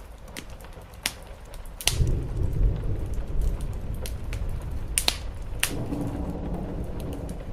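Wood fire crackling with sharp, scattered pops over steady rain. About two seconds in, a low rumble of thunder sets in and keeps rolling.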